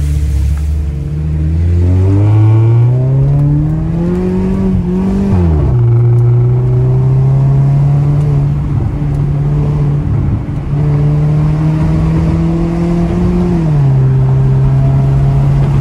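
Car engine accelerating, its revs climbing for about five seconds, then dropping sharply as at a gear shift or lift-off. It then holds a steady pitch, climbs slowly again and drops once more near the end.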